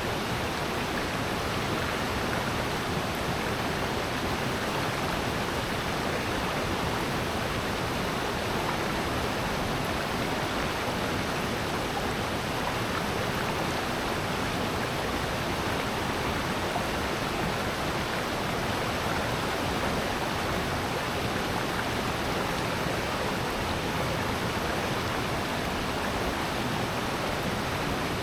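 Mountain stream and waterfall water rushing, a steady, even roar with no breaks.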